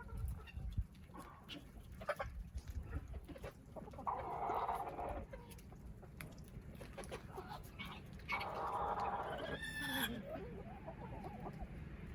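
Chickens clucking and calling, with a rooster crowing about eight seconds in.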